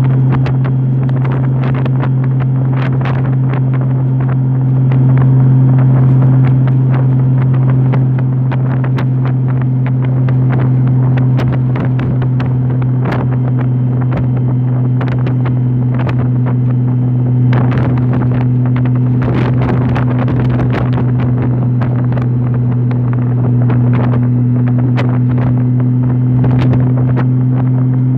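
Honda motorcycle engine running at a steady cruise, a constant drone that holds one pitch throughout, with wind buffeting the microphone in repeated gusts.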